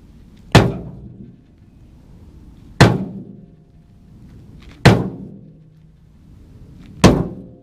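Four heavy sledgehammer blows on the steel of a tractor loader bucket, about two seconds apart, each ringing briefly, knocking a bent section down straight.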